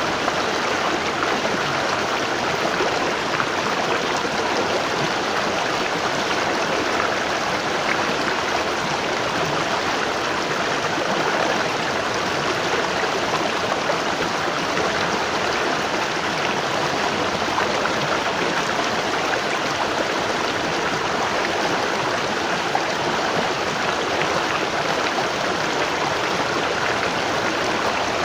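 Waterfall: falling water rushing steadily, an even hiss with no change in level.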